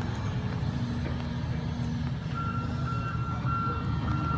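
Diesel engine of a CAT 323 excavator idling with a steady low rumble. About two seconds in, a high electronic beep starts, repeating evenly about twice a second.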